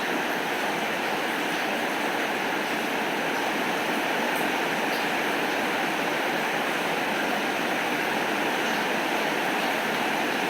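Heavy rain falling steadily, a dense even hiss that doesn't change, with no thunder.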